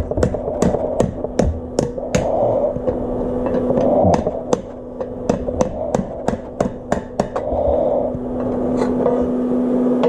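Metal struck repeatedly with a hammer, sharp knocks of about three a second that stop about three-quarters of the way through, over a steady hum.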